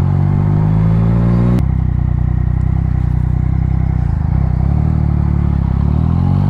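Motorcycle engine running under way. Its pitch climbs, drops suddenly with a click about a second and a half in, holds steady, then climbs again near the end.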